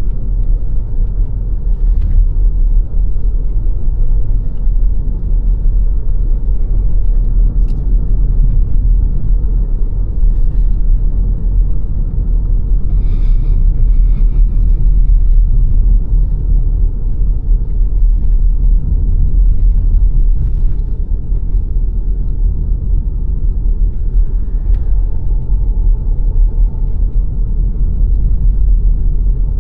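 A car driving along a road: a steady low rumble of tyres and engine, with a few faint ticks over it.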